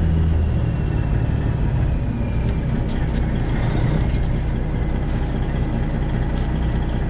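Straight-piped Detroit Diesel 12.7 engine of a Freightliner Classic XL semi truck running at low revs, a steady deep rumble, with a few light clicks in the second half.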